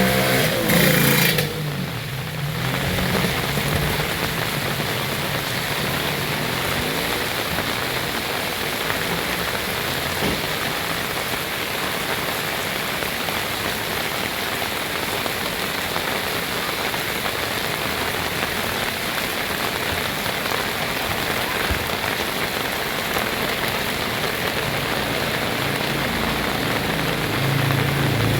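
Heavy rain pouring steadily, a dense, even hiss of rain hitting surfaces. A motor vehicle is heard passing in the first two seconds.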